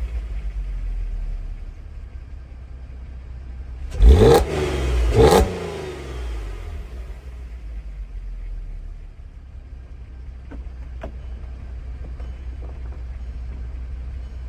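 2008 Audi TT's 3.2 VR6 engine through its stock exhaust, dropping back to idle, then blipped twice in quick succession about four and five seconds in, the revs rising and falling sharply each time, before it settles to a steady idle.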